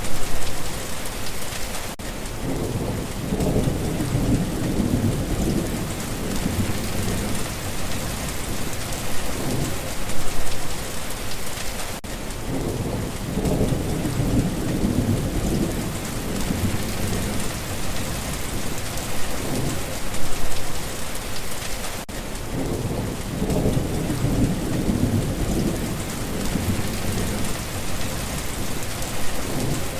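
Steady heavy rain hissing and pattering, with low rumbles of thunder rolling in and out. The rumbles and a brief louder swell come back about every ten seconds.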